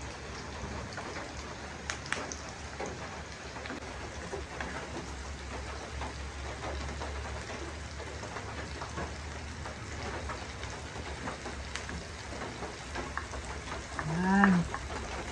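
Bagoong alamang (small-shrimp paste) with garlic and onion sizzling steadily in a frying pan as it is sautéed, with a few light clicks of the spatula. A short hum of a woman's voice comes near the end.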